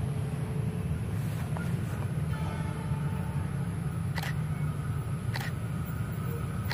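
Steady low rumble of a distant diesel train approaching along the track, with faint steady high ringing tones joining about two seconds in and a couple of sharp clicks near the end.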